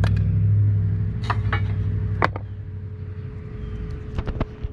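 An engine runs with a steady low rumble that fades away over the first two seconds, with a few sharp clicks and knocks of metal being handled.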